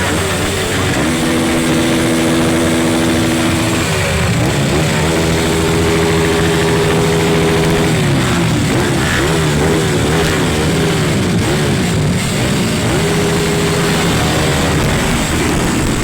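Motocross dirt-bike engine running hard, holding steady revs for a few seconds at a time, with the pitch rising and falling in between as the throttle is worked.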